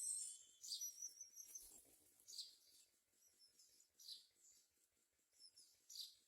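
Myna nestlings giving faint, high, squeaky calls, short notes repeated about every second and a half to two seconds.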